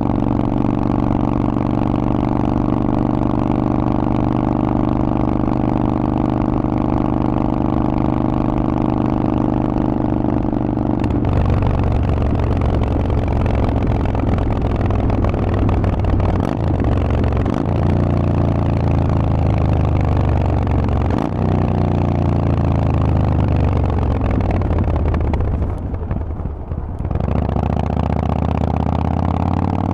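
Harley-Davidson Forty-Eight's air-cooled 1200 cc V-twin running through a Vance & Hines aftermarket exhaust. It holds a steady note for about ten seconds, then its pitch changes in several steps; near the end the sound drops briefly as the throttle closes, and the note then rises under acceleration.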